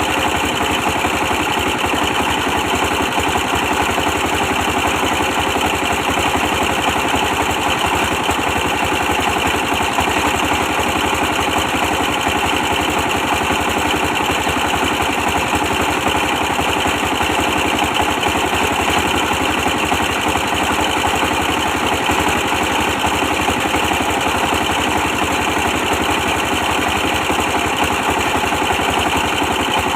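24 hp diesel engine running steadily, powering a brick press.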